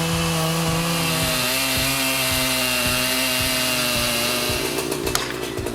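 Chainsaw engine running at high speed while cutting, holding a steady high note that wavers slightly. Near the end the steady note gives way to a rougher rattle with several sharp clicks.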